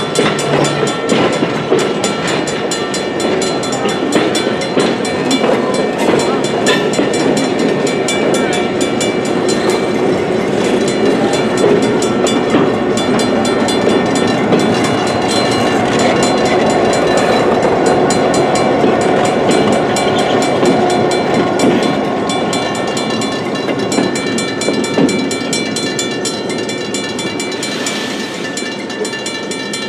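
Holiday lights passenger train rolling slowly past on street-running track, with steel wheels rumbling and clicking over the rail joints. A lighted diesel locomotive passes about halfway through. The sound fades steadily over the last several seconds as the train moves away.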